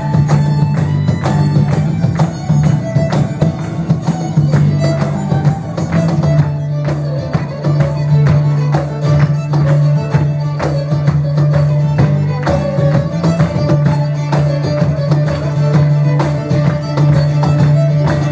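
Live Celtic folk dance music: a steady low drone under a wavering melody, with quick, regular percussion beats.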